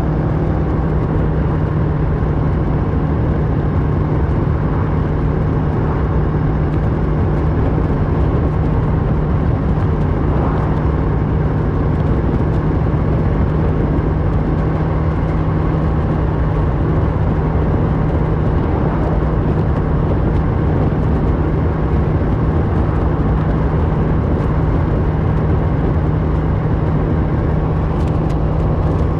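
Kawasaki Versys 650 parallel-twin engine through a Mivv slip-on exhaust, running at a steady cruise with a constant engine note that neither rises nor falls.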